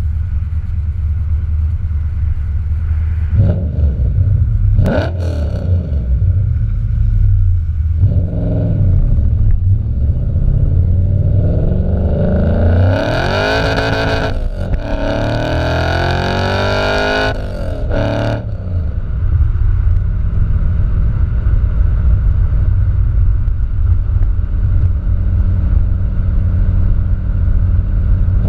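Nissan VH45 4.5-litre V8 through headers and a 3-inch single-exit exhaust: a low rumble with a couple of short rev blips a few seconds in, then about halfway a hard acceleration with revs climbing through the gears, one brief break for a shift, before lifting off to a steady low run.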